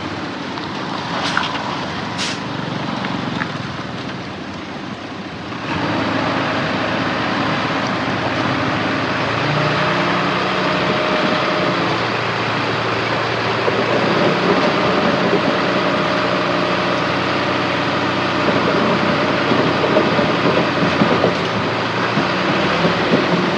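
Heavy diesel earthmoving machinery running and working, with a couple of sharp metallic clanks early on. About six seconds in the engine gets much louder and then runs steadily under load.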